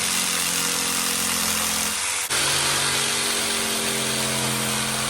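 An electric power saw running and cutting wooden framing beams: a steady motor whine over a loud cutting hiss, with a brief dip about two seconds in before it runs on again.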